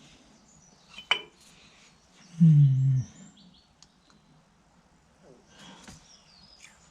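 A single sharp metallic clink with a brief ring about a second in, as of a steel part or tool set down in a workshop; then, the loudest sound, a man's short low hum that falls in pitch.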